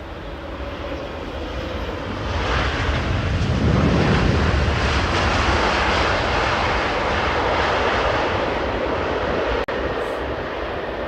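Jet airliner passing the airport perimeter. The roar of its engines builds, peaks about four seconds in and slowly fades, with a momentary audio dropout near the end.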